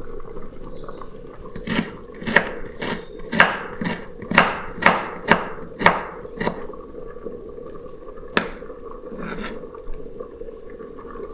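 Kitchen knife chopping on a wooden cutting board: about ten sharp strokes at roughly two a second, then two more after a pause, over a steady hum.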